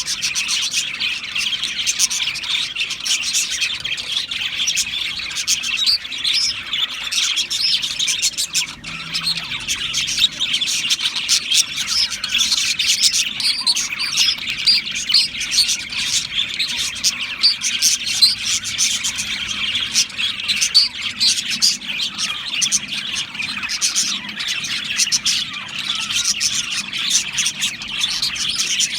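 A flock of budgerigars chirping and warbling continuously, many birds overlapping in a dense, high-pitched chatter.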